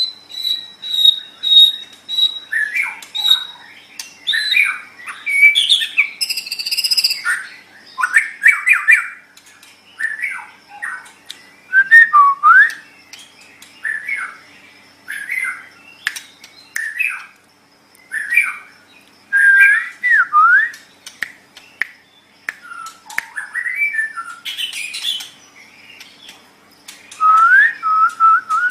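White-rumped shama (murai batu) singing a varied song of rich whistles, sweeping notes and chattering phrases, with short pauses between phrases. It opens with a long high held note and closes with a quick series of rising notes.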